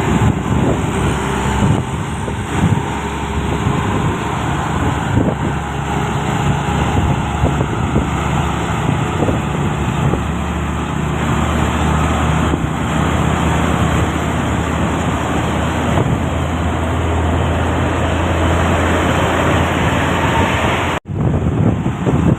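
Loaded truck's diesel engine running steadily while driving, with road and traffic noise. The engine drone grows stronger for a few seconds near the end, then the sound cuts out briefly.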